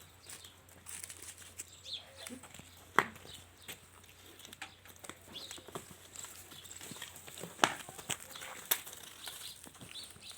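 Goats moving about a pen: scattered knocks and shuffling, with sharp knocks about three seconds and seven and a half seconds in.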